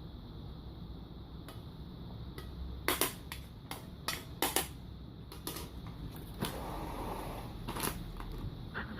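German shepherds chewing a crunchy snack: a string of sharp, irregular crunches in the middle, with more crunching and a rough rustly stretch near the end.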